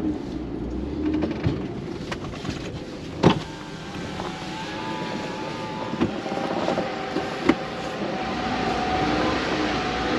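Camper van driving slowly over a rough dirt road, engine running, with the body knocking sharply over bumps, the loudest knock about three seconds in and another near the end.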